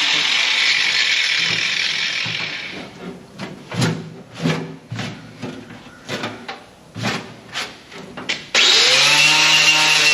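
Electric grinder working rust and body filler off a truck cab's sheet metal, then easing off. A string of short, sharp knocks and scrapes follows. Near the end the grinder starts up again, its pitch rising quickly to full speed.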